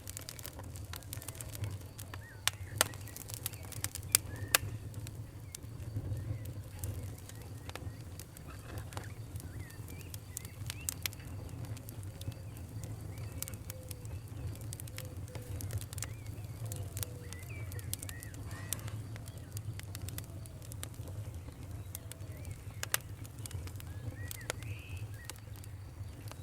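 Campfire crackling with frequent sharp pops over a steady low rumble of the flames, a few louder pops in the first few seconds. Birds chirp intermittently.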